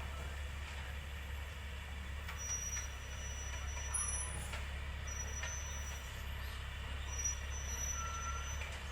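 Heavy road-construction machine's engine running steadily with a low rumble. A thin high tone comes and goes in stretches of about a second, three times.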